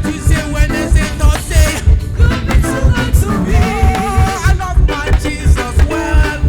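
Live gospel reggae band playing: heavy bass on a steady beat, with a melodic lead line above.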